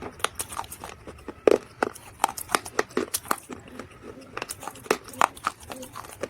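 Dried mud crunching: an irregular run of sharp crackles and snaps, several a second.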